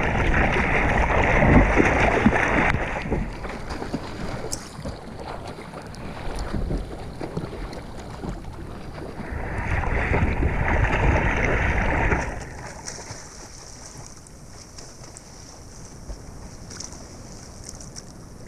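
Water splashing and churning as a swimmer swims butterfly in the sea, with loud surges of splashing in the first three seconds and again from about ten to twelve seconds in, quieter in between and after.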